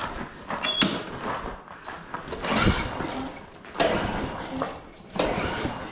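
Walk-behind lawn mower pull-started again and again, four pulls of the recoil starter rope turning the engine over without it catching: it fails to start after priming.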